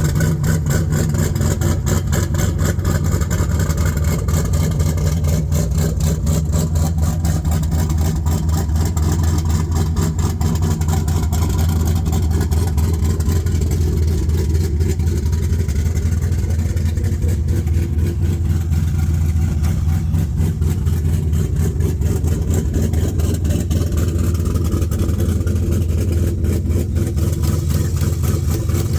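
Pontiac G8 GXP's 6.2 L LS3 V8, fitted with a TSP F35 camshaft, idling steadily.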